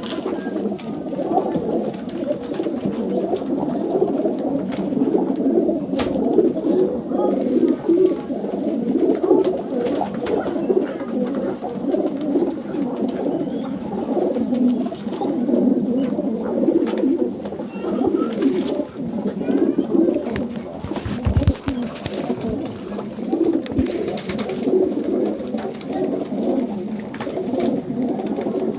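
A flock of racing pigeons cooing together, many overlapping low coos forming a dense, continuous chorus, with a single sharp click about six seconds in.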